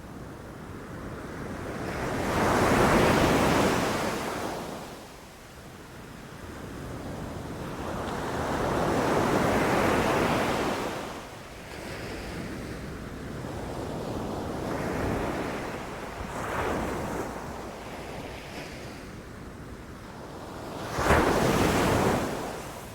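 Ocean waves breaking on a beach: surf surging and receding in swells, about three big ones, the last arriving abruptly near the end, with some wind noise on the microphone.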